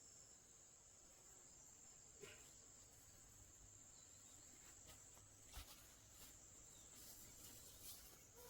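Faint, steady high-pitched insect trill, with a few faint clicks.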